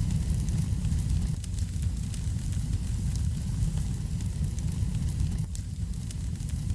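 Wood fire burning in a fireplace: a steady low rumble of flames with frequent small, sharp crackles of burning wood.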